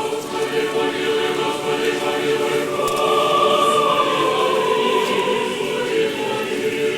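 Choir singing Orthodox liturgical chant unaccompanied, several voices holding long chords, with a higher voice line swelling in the middle.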